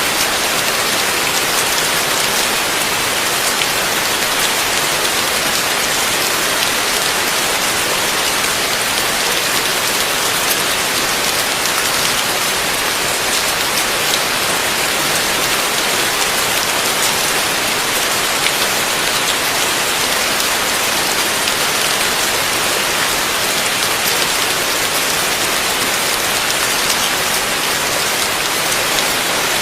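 Heavy rain falling steadily, a dense even hiss of many fine drop impacts.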